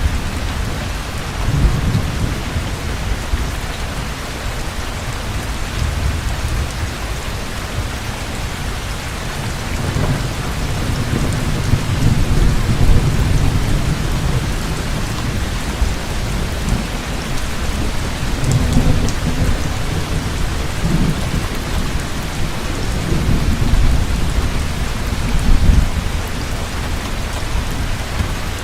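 Heavy rain falling steadily, with low rolling thunder that swells and fades several times.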